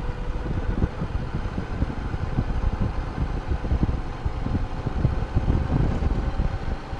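Wind buffeting the microphone on a moving Honda Goldwing motorcycle, a dense, uneven rumble over a faint steady hum from the bike.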